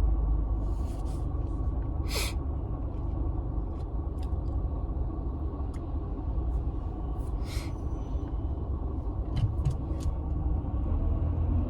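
Steady low rumble of a car on the road, heard from inside the cabin, with a few short breathy sounds from the driver.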